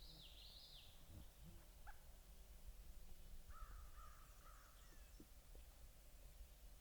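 Faint bird calls: a short run of high notes at the start, then a lower series of three or four notes about halfway through.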